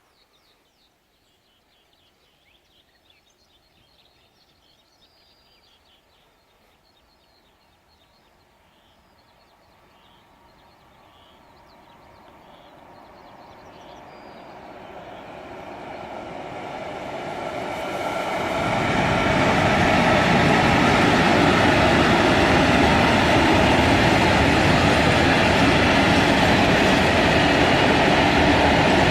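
Freight train approaching and passing. Faint birdsong at first, then the train's noise grows steadily over about ten seconds and turns loud and steady about two-thirds of the way in as it goes by.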